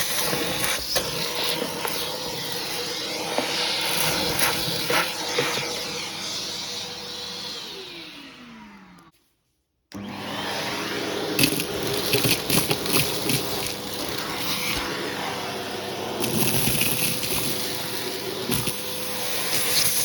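Hoover vacuum cleaner running with a hose tool, with frequent small clicks and crackles from debris being sucked up. About eight seconds in the motor winds down with a falling whine and goes silent for about a second, then it is running again.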